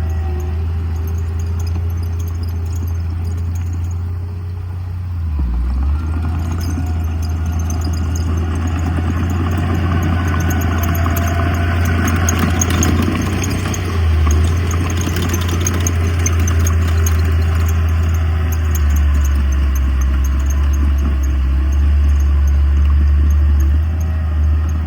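Heavy diesel earthmoving machinery running with a steady low engine drone. Through the middle stretch a louder clattering, grinding noise swells and then eases off, with fine rattling throughout.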